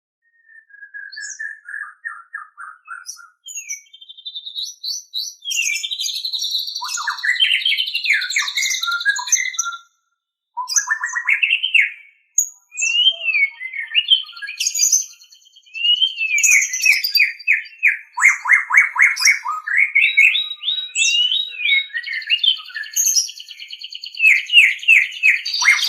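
White-rumped shama (murai batu) singing a long, varied song of clear whistles, sliding phrases and fast trills, broken by brief pauses, with runs of rapid repeated notes in the second half.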